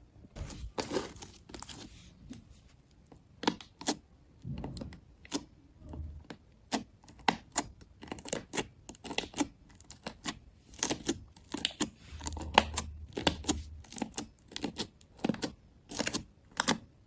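Slime being squeezed and poked by hand, giving a quick irregular run of sharp clicks and pops, with a few duller squishes underneath.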